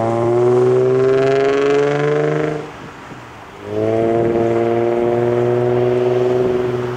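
Infiniti G35 coupe's 3.5-litre V6 through a Nismo catback exhaust with resonated test pipes, the car accelerating past. It makes one pull rising slightly in pitch, eases off for about a second, then pulls again and fades near the end.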